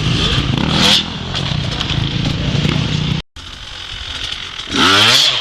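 Dirt bike engine running, then a sharp rev rising in pitch near the end, with a brief gap in the sound a little past halfway.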